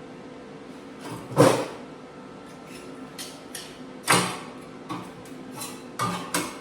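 Sheet-metal muffler pieces clanking and knocking as they are handled and set in place. There is a loud clank about a second and a half in, another about four seconds in, and a run of lighter knocks near the end, over a faint steady hum.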